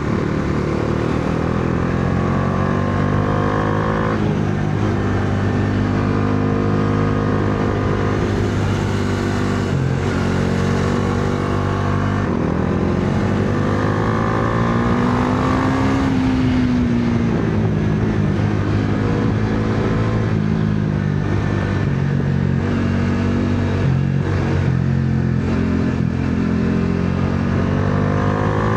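Bajaj Dominar 400's single-cylinder engine pulling under load through the gears. Its revs climb, then break and drop back as it shifts, around 4, 12 and 24 seconds in, with a slower rise and fall in the middle.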